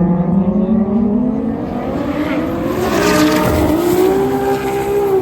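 Turbocharged race cars, a big-turbo Toyota Supra and a twin-turbo Audi R8, accelerating flat out in a roll race. The engine note climbs steadily, dips briefly at an upshift about three and a half seconds in, then holds higher.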